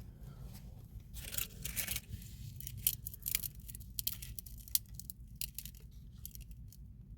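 Rustling and scraping with scattered sharp clicks and taps, from hands and gloves handling drain pipes and fittings, over a steady low rumble.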